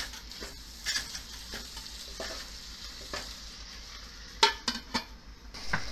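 Chicken, onion and tomato sizzling in a nonstick pot, stirred with a wooden spoon in scraping strokes about once a second. About four and a half seconds in, a stainless steel lid goes on with a few sharp clinks.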